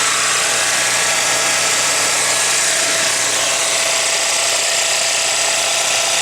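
Nissan 180SX's four-cylinder engine idling steadily while cold, running rough enough that the owner suspects it is firing on only three cylinders, though it could be just the old fuel.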